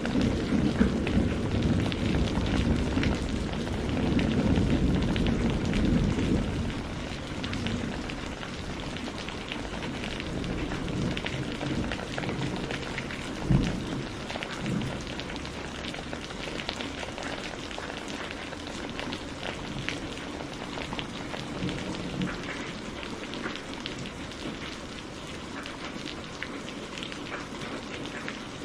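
Steady rain pattering on a surface, with the low rumble of thunder dying away over the first six seconds and one short, sharp thunder crack about halfway through.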